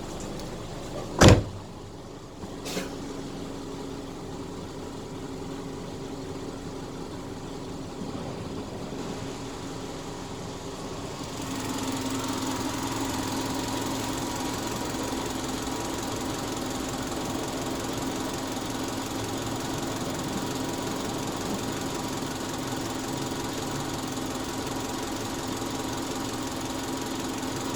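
Subaru Outback engine idling steadily. A single sharp bang about a second in and a lighter knock a second later. About 11 seconds in the engine sound becomes louder and brighter and then holds steady.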